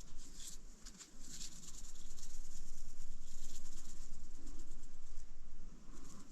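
Soft rustling and handling noises from preparing food, with hissy scrapes and shakes over a low steady hum.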